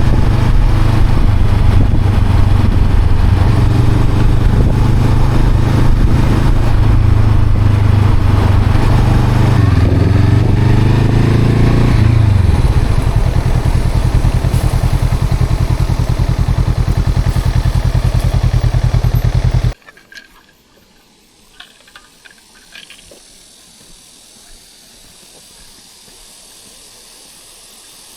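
Honda CL500 parallel-twin motorcycle engine running loud and steady, its pitch falling about ten to twelve seconds in. The sound cuts off suddenly about two-thirds of the way through, leaving a faint quiet background with a few small clicks.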